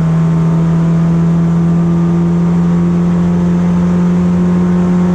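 BMW E36 race car engine running at a steady, nearly constant engine speed, one even drone. The car is under test for a misfire and hesitation that the driver puts down to a fuel supply problem.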